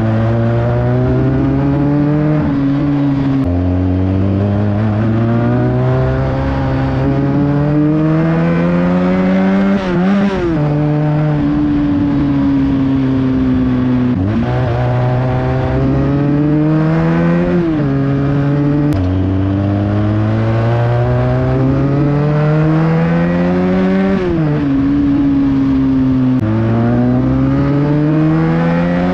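Benelli 300 motorcycle's parallel-twin engine through a loud exhaust while riding. The engine pitch repeatedly climbs as it revs up, then drops sharply at each gear change, with stretches where it eases off and the pitch slowly falls.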